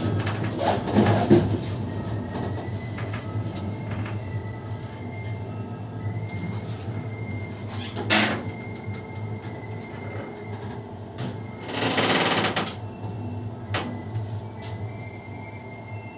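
Tail carriage of a passenger train rolling into a station: a steady rumble of wheels on track with scattered knocks, fading as the train slows. There are two sharp knocks, about eight seconds and about fourteen seconds in, and a short hiss about twelve seconds in.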